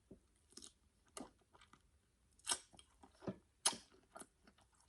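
A person chewing a mouthful of seafood with the mouth open: a string of short, wet smacks and clicks, irregularly spaced, the loudest a little past the middle.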